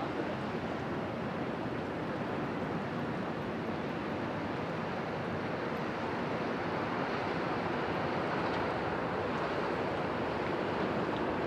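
Steady rushing noise of wind and river water, getting a little louder about halfway through.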